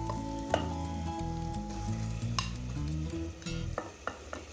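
Background music over marinated chicken pieces dropping into hot ghee and masala in a pressure cooker, sizzling, with sharp clinks of a steel ladle against the plate and pot. The music stops near the end, leaving a few quick clinks.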